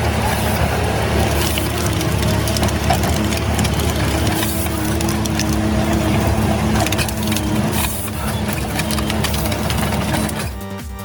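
A heavy machine's engine running steadily under load, with crunching and cracking of wood being broken up. It stops about ten and a half seconds in.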